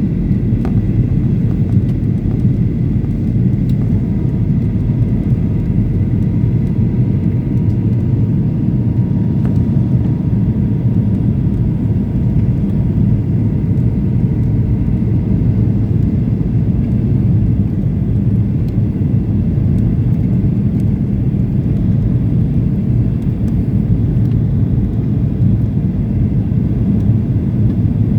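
Steady low rumble inside the cabin of a Boeing 737-800 in flight on approach: its CFM56-7B turbofans and the airflow over the fuselage.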